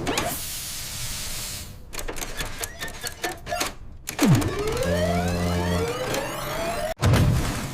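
Cartoon sound effects. A crackling hiss comes first, then scattered clicks and clatter. Just past the middle a rising whine with a low hum begins, and it cuts off abruptly into a loud thump near the end.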